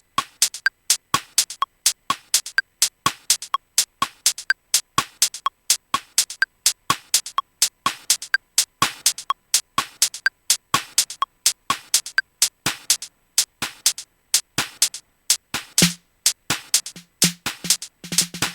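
Electronic drum pattern from a Native Instruments Maschine groove: short, clicky percussion hits repeating at about four a second, with no kick drum. Near the end a low bass note sounds briefly, then comes back and holds.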